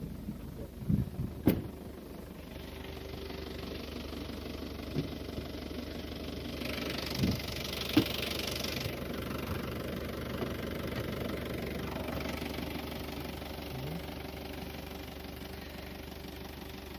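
Ford Transit diesel engine in a GAZelle van idling steadily, with a few sharp knocks in the first two seconds and again about halfway through, and a brief hiss midway.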